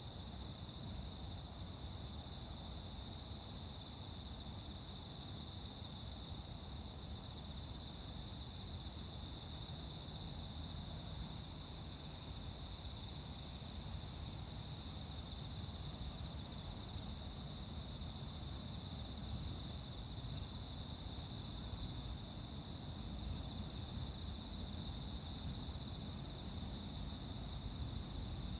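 A chorus of crickets and other night insects trilling steadily at two high pitches, with a third insect repeating short chirps at an even pace, over a low distant rumble.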